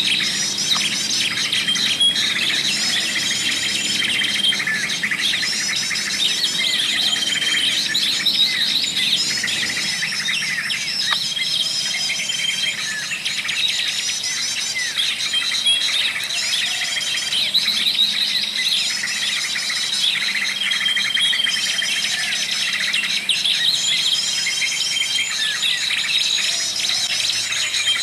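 Dense chorus of small birds chirping and trilling rapidly, with a short, steady whistled note recurring every few seconds.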